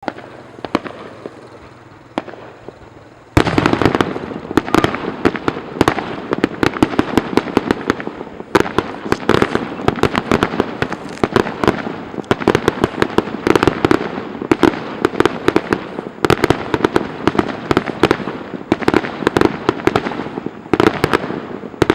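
Fireworks display: a few scattered bangs, then from about three seconds in a dense, continuous barrage of rapid bangs and crackles.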